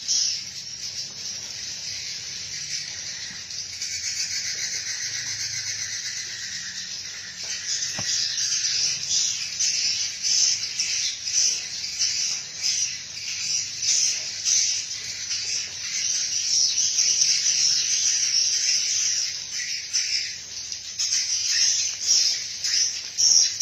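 Swiftlets twittering: a dense, continuous stream of rapid high-pitched chirps, growing louder about eight seconds in.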